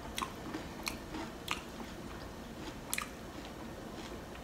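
A person chewing a mouthful of loaded nachos close to the microphone, with several short, sharp crunches of tortilla chip spaced unevenly through the chewing.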